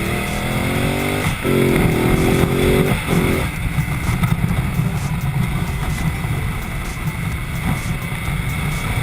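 Ducati Multistrada motorcycle engine pulling hard through the gears: its pitch climbs, drops at an upshift, climbs again, drops at a second upshift and rises briefly, all within about three and a half seconds. After that it settles into a steady cruising rumble under rushing noise.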